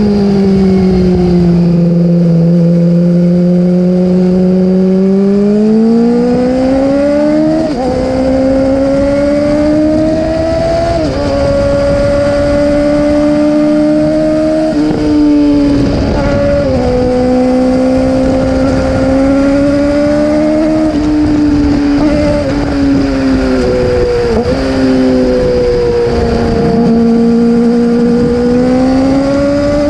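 Yamaha YZF-R6 inline-four engine running at moderate revs. Its pitch climbs and sags gently, with sudden jumps every few seconds.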